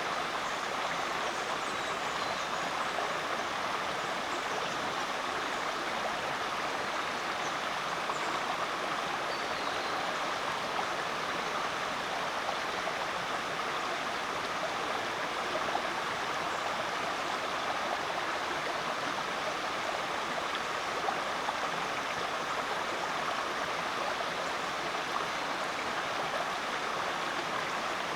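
Rainforest creek water flowing, a steady, even rush with no break.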